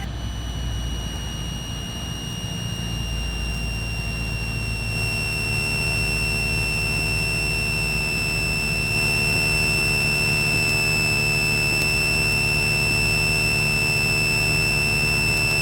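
Cessna 172 Skyhawk in flight: a steady engine drone with a continuous high-pitched electronic whine over it, the whine sagging slightly in pitch.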